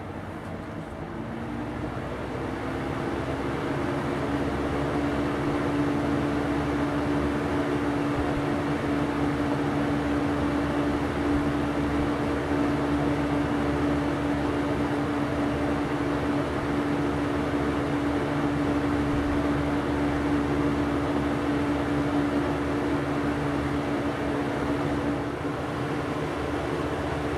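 Lakewood 200/i 20-inch box fan running: a steady rush of air from the blades with a motor hum. Over the first few seconds the hum rises in pitch and the sound grows louder as the fan comes up to speed, then it holds steady.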